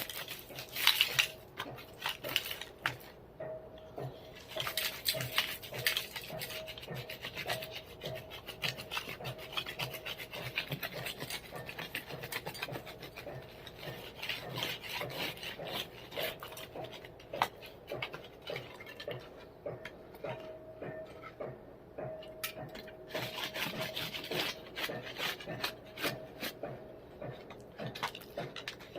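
Irregular scraping and gritty rasping of digging in gravelly dirt, scooping out a tunnel for the forge's air tube.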